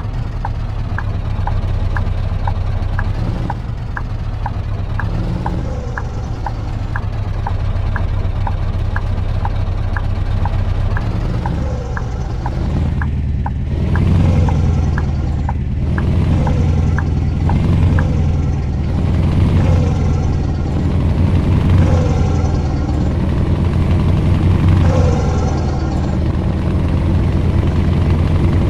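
Scania V8 truck engine running, a steady low drone, with a light regular ticking about one and a half times a second during the first half. In the second half the engine sound rises and falls about every two seconds.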